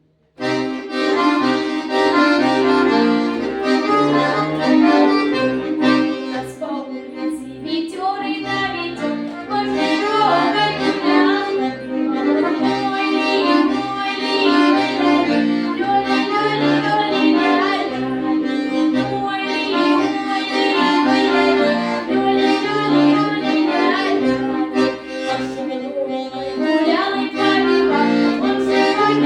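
Accordion playing a Russian folk song, sustained chords over a rhythmic bass line.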